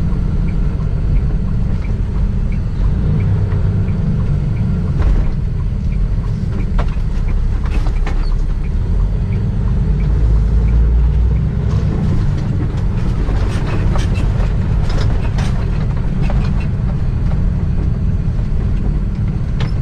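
Semi-truck's diesel engine and road rumble heard inside the cab, a strong steady low drone. Scattered short clicks and rattles come through it, most of them in the middle.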